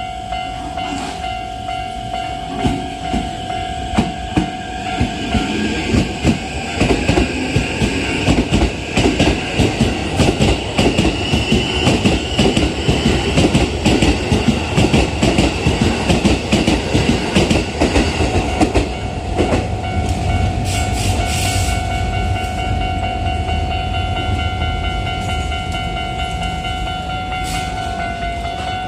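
Japanese level-crossing warning bell ringing steadily while a commuter train goes over the crossing. The train's wheels clatter rapidly over the rail joints, building a few seconds in and dying away about two-thirds of the way through, leaving a low rumble under the bell.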